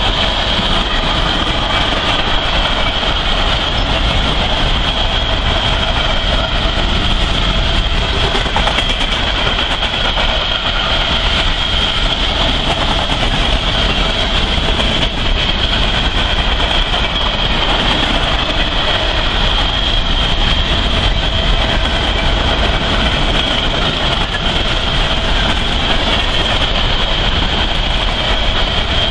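Freight train cars rolling past at speed: a steady loud rumble and clatter of steel wheels on rails, with a steady high whine over it.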